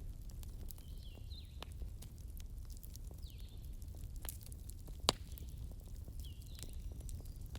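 Campfire crackling, with scattered sharp pops over a low steady rumble; the loudest pop comes about five seconds in. A high falling chirp from some animal repeats about every second and a half in the background.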